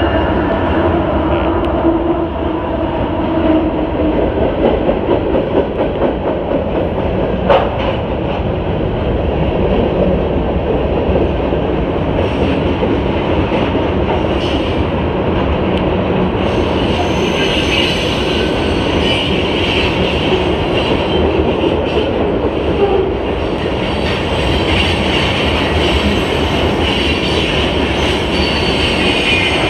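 CSX freight train passing close by: the diesel locomotive's engine drones at the start, then tank cars rumble and clatter steadily over the rails. A high, thin wheel squeal joins from about halfway through.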